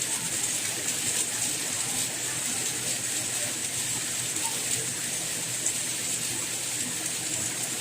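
Steady rainfall: an even hiss of rain with scattered faint ticks of individual drops.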